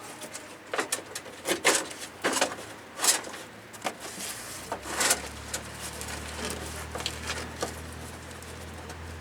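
Scattered clicks and knocks of tools and parts being handled, with a low steady hum coming in about halfway through.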